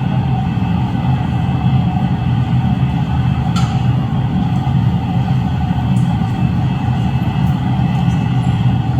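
Glass furnace burner running with a loud, steady low rumble, and a faint click about three and a half seconds in.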